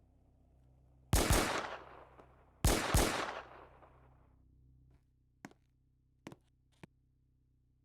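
Two loud double bangs about a second and a half apart, each pair of sharp cracks followed by a long fading echo, then a few faint clicks.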